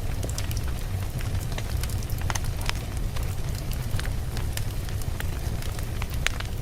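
Wood logs burning in a fireplace: a steady low rumble of the flames with frequent sharp, irregular crackles and pops as the wood burns.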